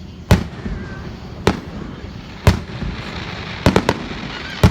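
Fireworks display: aerial shells bursting with sharp bangs, spaced about a second apart, then three in quick succession and one more near the end.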